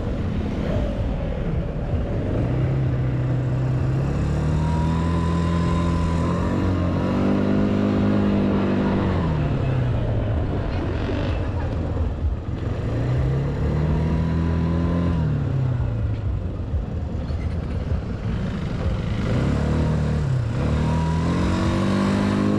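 Mavila Gepard 200 quad bike's engine being ridden, revving up and easing off several times so its pitch rises and falls, over a steady rush of noise.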